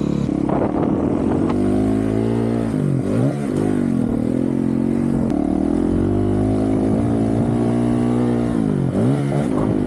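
2023 Honda CRF450RL's single-cylinder four-stroke engine, through a full titanium Yoshimura RS-4 exhaust, being ridden hard with its revs rising and falling. The throttle is chopped and picked up again about three seconds in and once more near the end.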